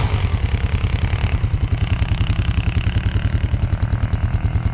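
Snowblower's small single-cylinder engine running steadily close by, with a fast, even putter.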